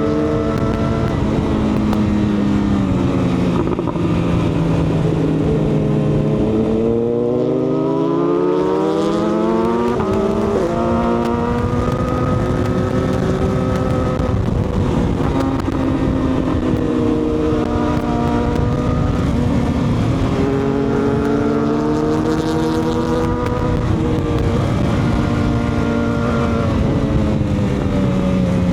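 Sport-touring motorcycle engine under way, its pitch sliding down and then climbing again several times as the revs change through the gears, over a steady rush of wind.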